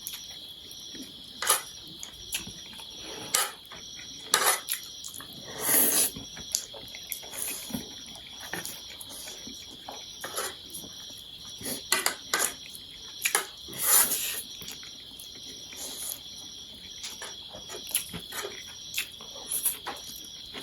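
Close-up eating sounds from a noodle meal: chewing and slurping, with sharp clicks of chopsticks and utensils against dishes scattered irregularly throughout. A steady high-pitched tone runs in the background.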